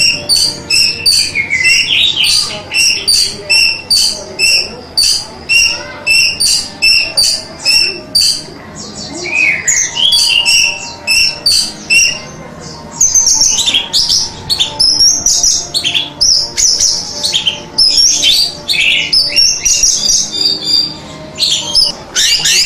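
Orange-headed thrush singing: for about twelve seconds a steady series of short repeated notes, two or three a second, then a faster, more varied warbling song of gliding notes.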